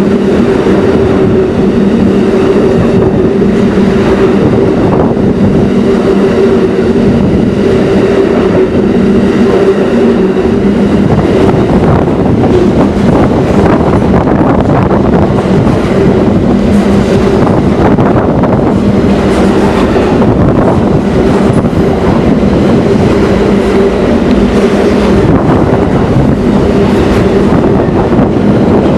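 Train passing close by, its wheels running over the rails with a clickety-clack and a steady hum that weakens partway through.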